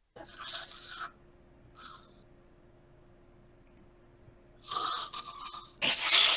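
An unidentified weird noise like somebody blowing their nose: four rushing, hissy bursts, the last two, near the end, the loudest.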